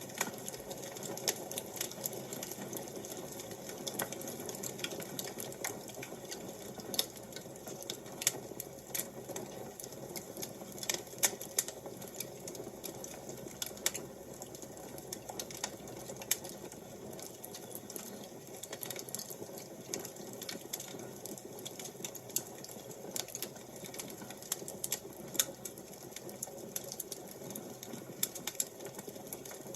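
Wood fire crackling: irregular sharp pops and snaps, several a second, over a soft steady rush.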